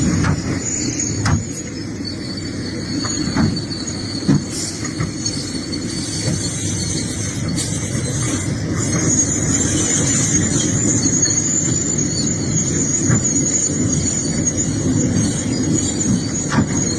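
Excavator running, a steady low engine sound under a continuous high-pitched squeal, with a few sharp knocks in the first few seconds.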